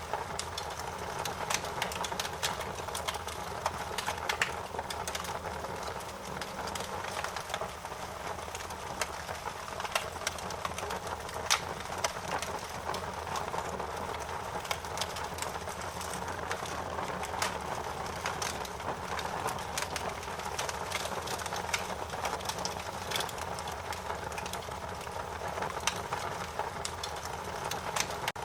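Fire crackling: frequent, irregular sharp pops and snaps over a steady hiss and low rumble.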